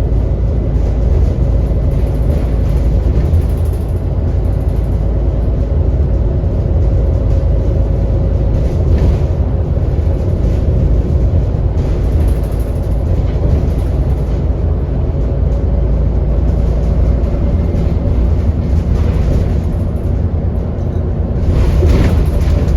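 Inside an ADL Enviro400 double-decker bus on the move: the diesel engine and drivetrain give a steady low rumble, with a steady hoover-like whine from the cooling fan over it. Near the end there is a brief louder rattle and rush.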